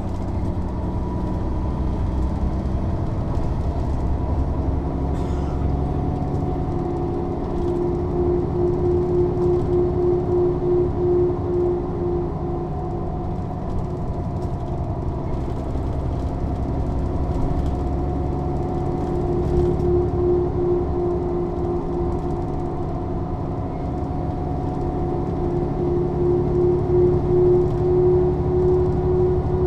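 Mercedes-Benz O 407 city bus under way: its six-cylinder diesel engine and drivetrain run steadily, with a slowly drifting hum and, in several stretches, an evenly pulsing drone.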